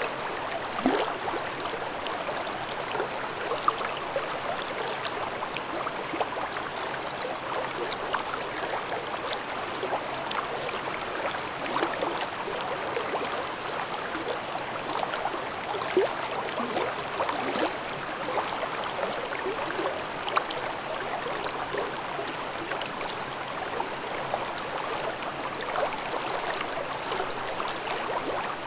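Forest valley stream babbling steadily, a constant rush of flowing water with many small splashes scattered through it.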